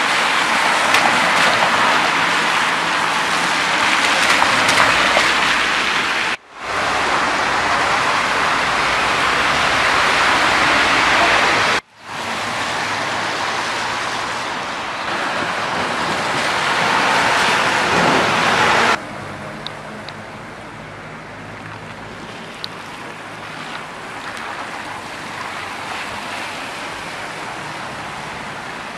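Rain and traffic on a wet city street: a steady hiss, loud for about the first nineteen seconds and broken twice by brief dropouts, then quieter and steady.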